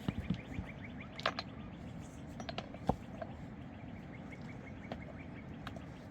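A bird calling in a fast run of short, high repeated chirps, about six a second, with a few sharp knocks and clicks over a low background rumble.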